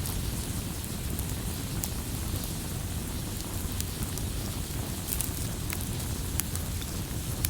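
Campfire burning with a steady low rumble and scattered sharp crackles and pops of burning wood.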